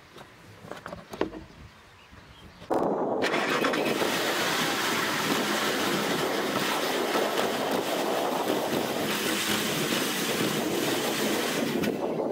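Audi A8 D3's 4.2-litre V8 engine started for the first time after an oil change, catching suddenly about three seconds in after a few faint clicks and then running steadily to fill the new oil filter.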